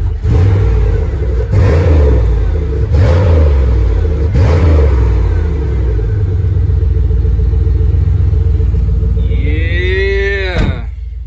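Chevy Monte Carlo's 5.3-litre LS4 V8 blipped four times in quick succession, about a second and a half apart, then settling to a steady idle. Near the end a short pitched tone sweeps up and then falls away sharply.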